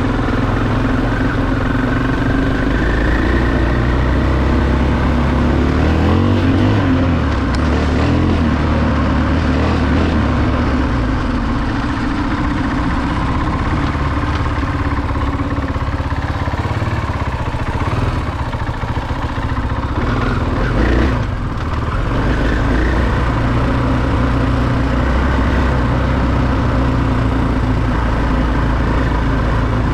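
Dirt bike engine running under way, its note rising and falling with the throttle, with a brief dip in level about two-thirds of the way through.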